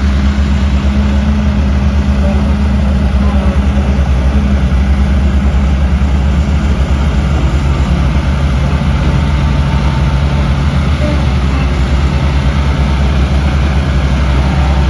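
Heavy diesel engine of a construction machine running steadily at a low, even speed, its note dropping slightly about halfway through.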